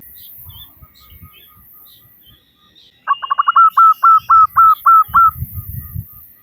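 Zebra dove (perkutut) calling: a run of about ten short, hooked notes, packed tight at first and then slowing, starting about three seconds in. Fainter repeated notes come before it. It is used as a female's call to draw males.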